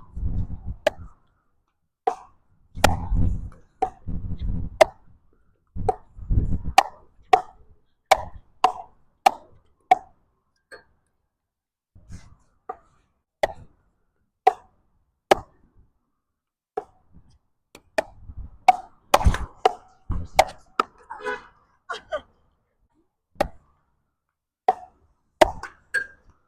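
Pickleball paddles striking a plastic ball in a rally, a sharp pop roughly every half second to a second. Wind buffets the microphone in gusts near the start and again past the middle.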